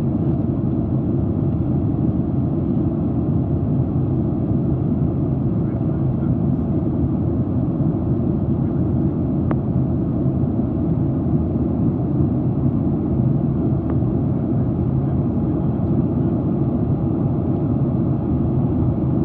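Steady low rumble of jet engines and rushing air heard inside an airliner cabin in flight, even and unchanging throughout, with two faint clicks in the middle.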